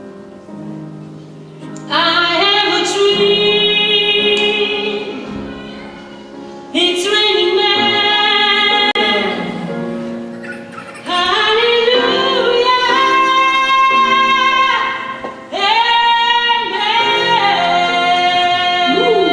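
Female vocal group singing long held notes in three-part harmony over a band accompaniment, in four phrases that each start suddenly and loud.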